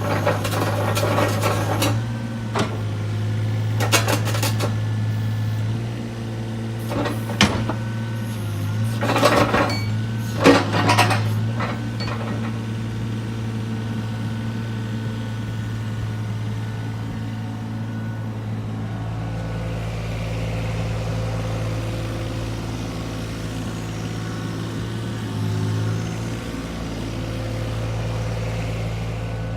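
Hitachi ZX22 mini excavator's diesel engine running steadily, with a string of sharp metallic clanks over roughly the first twelve seconds. A deeper low rumble joins the engine note about two-thirds of the way in.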